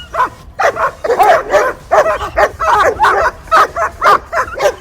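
Dog barking and yelping in quick succession, a few barks a second, with a short pause just after the start.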